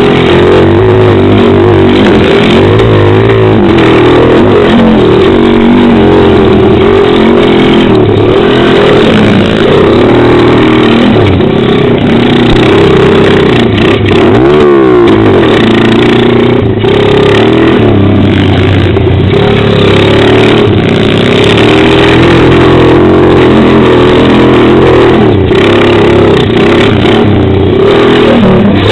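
Pit bike engine revving up and falling back repeatedly as the bike is ridden, loud and close, with a quick rev about halfway through.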